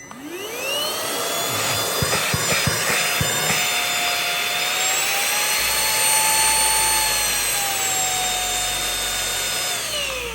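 Cordless handheld vacuum cleaner's motor switched on, whining up to speed, running steadily with its pitch stepping up and later back down as the power setting is changed, then winding down as it is switched off near the end. A few clicks about two to three seconds in.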